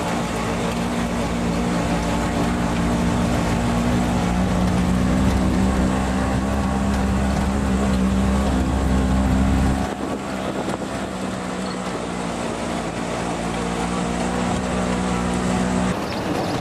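Vehicle engine running steadily, a continuous drone with a deep rumble that drops away about ten seconds in.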